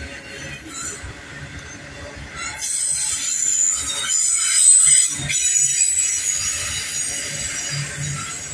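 Freight train of autorack cars rolling past at close range. About two and a half seconds in, a high-pitched wheel squeal sets in, peaks a couple of seconds later and then eases off slowly.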